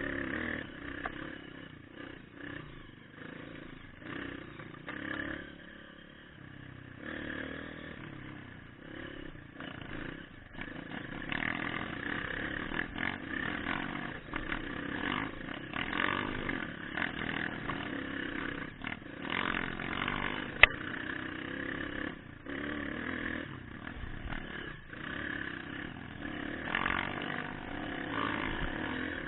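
Trail motorcycle engine running while riding, its level rising and falling as the throttle changes, with one sharp knock about two-thirds of the way through.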